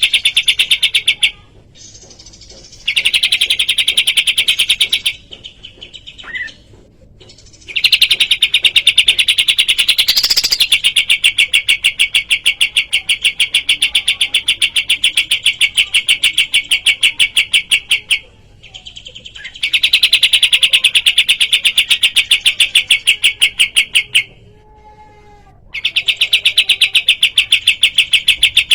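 Kapas tembak songbird giving a loud, rapid, evenly pulsed trilling song in long runs of several seconds, with short pauses between them.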